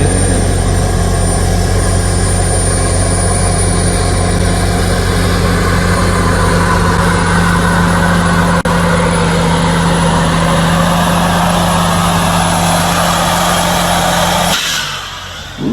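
A pickup truck engine running steadily at idle: an even, loud low drone that stops abruptly near the end.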